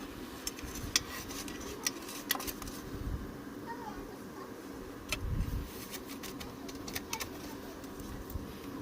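Scattered small metallic clicks and clinks, like hard objects or tools being handled, over a steady low hum, with a short low rumble about five seconds in.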